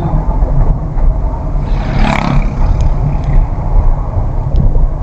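Car on the move heard from inside the cabin: a steady low rumble of engine and road noise, with a brief louder rushing noise about two seconds in.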